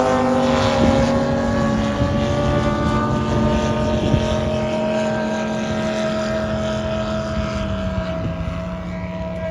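Pair of racing drag boats side by side at full throttle down the course, a steady high engine note that slowly fades and drops in pitch near the end as they back off.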